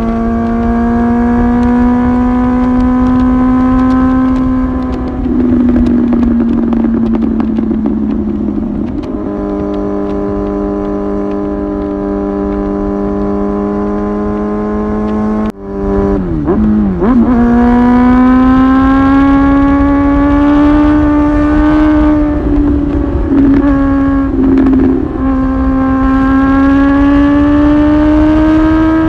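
Kawasaki ZX-10R's inline-four engine running through a titanium slip-on muffler, heard from onboard while riding: a loud, steady engine note that drifts slowly in pitch. About halfway through the note cuts off sharply and dips, then rises again, with a couple of brief dips near the end.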